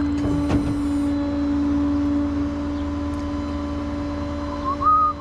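Truck engine idling, a steady drone with a low hum. Near the end a short higher tone comes in, stepping up and down in pitch.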